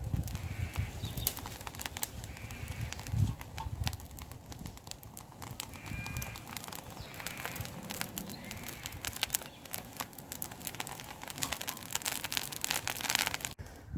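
Campfire crackling, with many sharp irregular pops and snaps from the burning wood.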